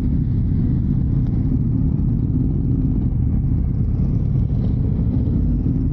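Steady low rumble of a motorcycle on the move: engine and road noise with no change in pace.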